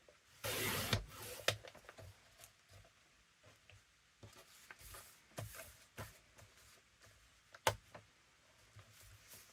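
Paper pages being trimmed with a craft blade and handled. A scraping cut comes about half a second in and another around the middle, with light rustles and taps between and a sharp click near the end.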